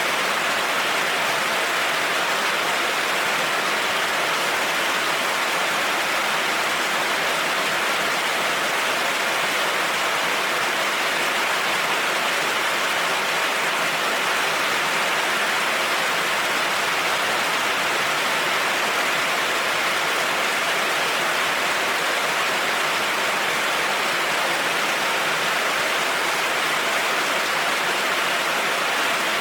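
Heavy rain falling steadily: an even, unbroken hiss with no thunder claps.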